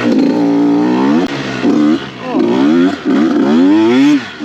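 Dirt bike engine revving hard and dropping off, on and off the throttle about four times, its pitch climbing in each push before it chops back.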